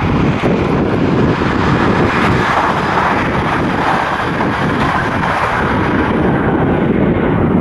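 Train passing close by at speed: a loud, steady rushing noise with no clear tones.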